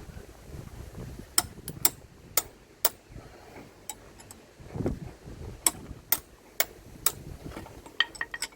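Sharp metallic clicks from hand-tool work on a car engine: two runs of four evenly spaced clicks about two a second, then a quick cluster of clicks near the end.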